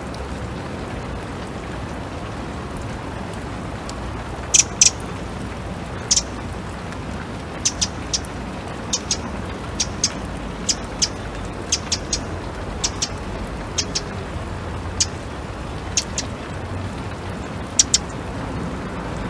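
Steady rain falling, with a bird calling over it in short, high-pitched chirps, often in quick pairs, repeated every second or so from a few seconds in.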